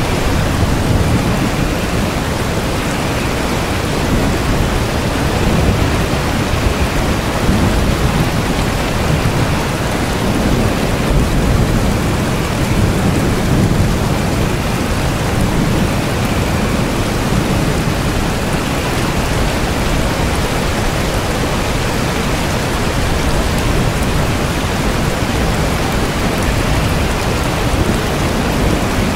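Steady rain with a low rumble of thunder that swells and fades every few seconds.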